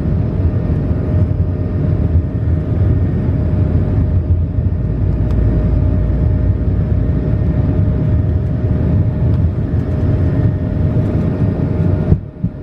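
Airbus A220-371 with Pratt & Whitney PW1524G geared turbofans, heard from inside the cabin: a loud, steady rumble of engine and airframe noise with a constant hum running through it. It cuts out briefly near the end.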